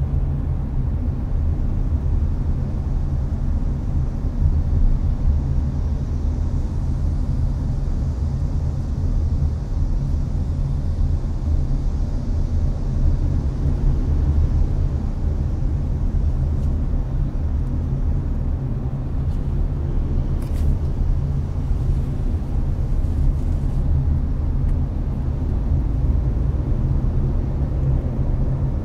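Cabin noise of a Hyundai Avante (Elantra) cruising on an expressway: a steady low road-and-engine rumble with the air conditioner blowing. A faint tick comes about twenty seconds in.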